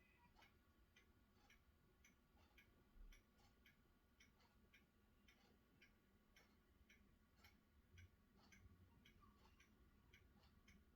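Faint, irregular ticking of water drops landing on a hard surface, several a second, from rain or runoff dripping during a thunderstorm.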